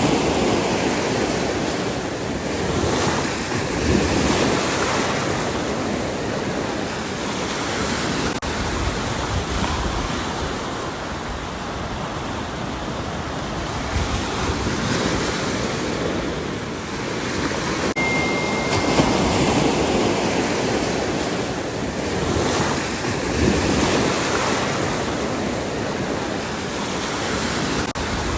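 Ocean surf: waves breaking and washing in one after another, a steady rushing that swells every few seconds. A brief high beep sounds about two-thirds of the way through.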